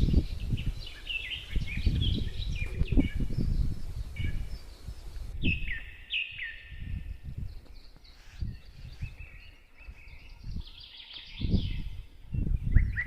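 Small birds chirping and twittering in many short, repeated calls over an uneven low rumble.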